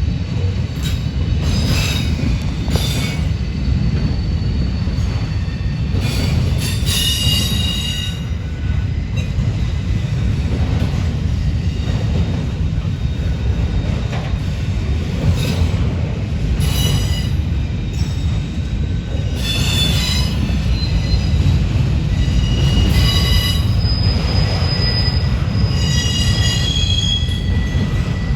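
Manifest freight train rolling past with a steady low rumble of wheels on rail, broken by short high-pitched wheel squeals that come and go.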